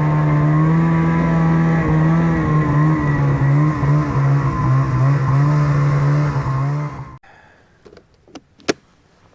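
Snowmobile engine running at a steady pitch under way for about seven seconds, then cutting off abruptly into quiet broken by a few sharp clicks.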